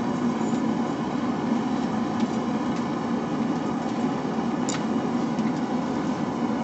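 A forge running with a steady roar, with one small sharp click a little under five seconds in.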